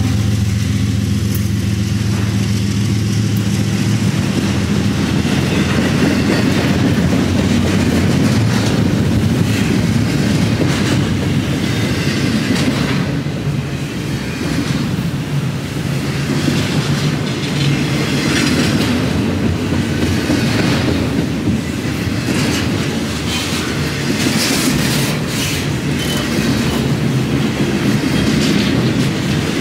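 BNSF double-stack intermodal freight train's well cars rolling past close by: a loud, steady rumble of steel wheels on rail with repeated clickety-clack over the rail joints. The steady hum of the just-passed diesel locomotive fades out in the first few seconds.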